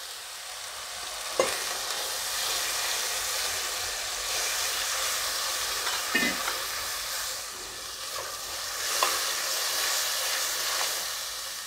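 Ground red chilli paste and spices sizzling steadily in hot oil in a non-stick kadhai while a silicone spatula stirs through them, with a few light knocks of the spatula against the pan.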